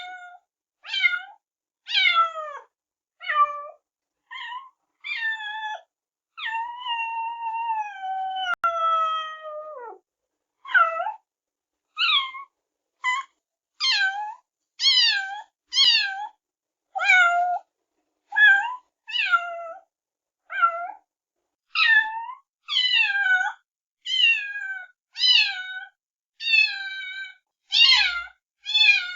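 Kittens meowing over and over in short, high-pitched meows about once a second. About a quarter of the way through comes one long, drawn-out meow that slides down in pitch.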